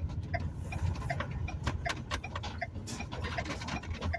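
Vehicle turn-signal indicator clicking steadily, about two and a half ticks a second, over the low rumble of the engine and road, with scattered crackles in the middle stretch.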